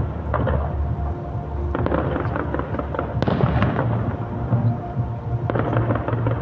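Fireworks bursting and crackling in quick succession, over loud show music with a heavy bass.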